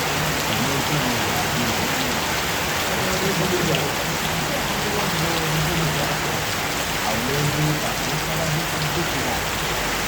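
Steady rain falling on surfaces, a dense even hiss, with a faint low voice underneath.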